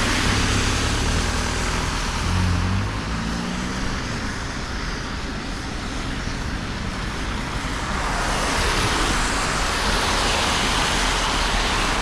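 Street traffic on a wet road: vehicle engines running and tyres hissing on the wet surface. The hiss swells for the last few seconds as a vehicle passes.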